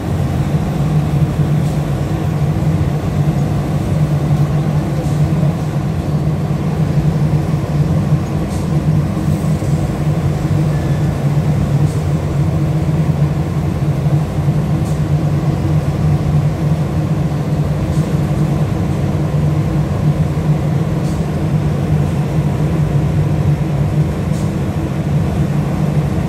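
Cargo ship's main diesel engine running steadily under a propeller test, a loud, even low drone with a strong hum.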